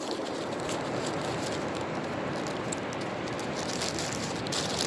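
Steady rushing of ocean surf with scattered faint crackles over it.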